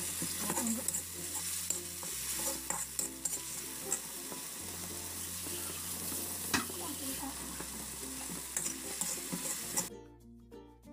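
Ground chili, shallot and garlic paste with chopped onion frying in hot oil in a wok, sizzling steadily, with a slotted spatula stirring and scraping against the pan in scattered clicks. The sizzling cuts off abruptly near the end.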